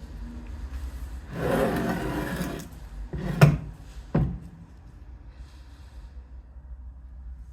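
Workbench handling noises: a rough scraping rub lasting about a second, then two sharp knocks, the first the louder, over a low steady hum.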